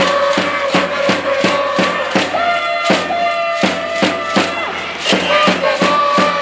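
Organized cheering from a school cheering section in the stands: a steady, rapid beat of claps or thundersticks, about three or four a second, under a held chant or melody that moves in steps.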